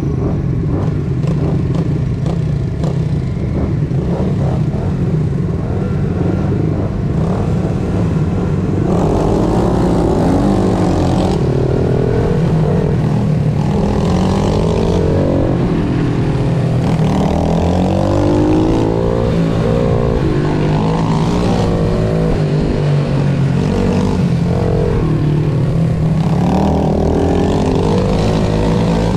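Pit bike engine revving hard and falling away again and again as it is ridden round a track, its pitch climbing through each gear and dropping for corners.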